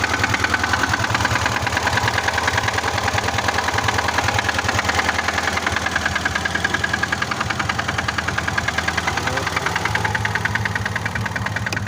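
VAZ-2106 Zhiguli inline-four engine idling with an even, rapid pulse after standing unused for months, still shaking roughly.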